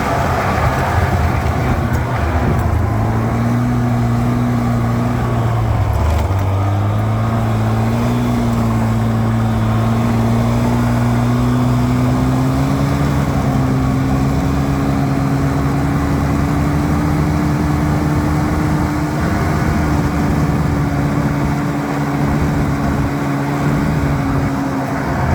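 An engine running steadily. Its pitch drops briefly about six seconds in, then climbs slowly and evenly.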